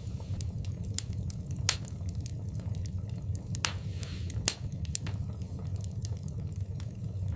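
Wood fire burning in a fireplace: a steady low rumble with irregular sharp crackles and pops, and a short hiss about four seconds in.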